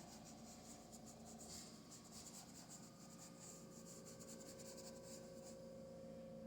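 Faint, quick scratchy strokes of a paintbrush working acrylic paint, over a steady faint hum.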